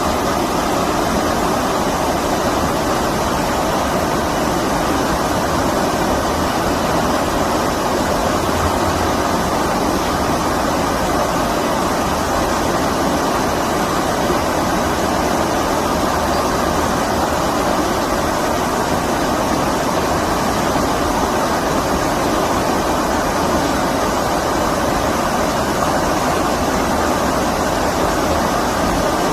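Stream water rushing steadily, a constant even wash of flowing water.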